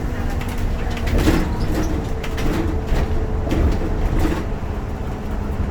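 Bus engine and road noise heard inside the cabin: a steady low rumble with a faint hum, and a few short rattles and clatters from the bodywork.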